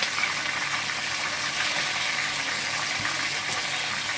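Whole chicken deep-frying in hot oil, a steady sizzle with fine crackling.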